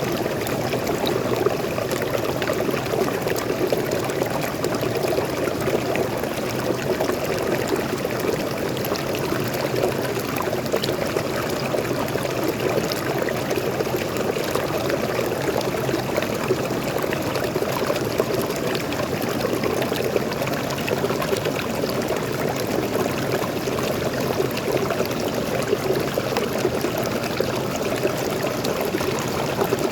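A small waterfall and stream: water pouring and splashing steadily over rocks.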